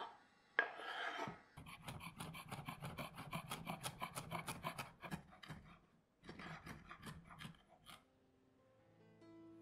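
Chef's knife rapidly chopping coriander leaves on a wooden cutting board, about five cuts a second, with a second short run of cuts a little later. Near the start the blade scrapes across the board, sweeping chopped green chillies into a glass bowl. Soft piano music comes in near the end.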